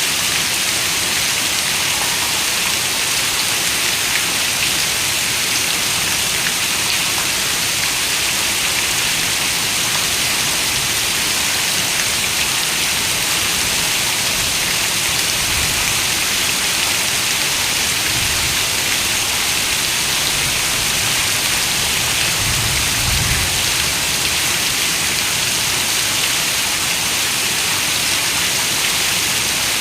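Heavy rain falling steadily on a window, a dense, even hiss of drops. A soft low rumble swells briefly about two-thirds of the way through.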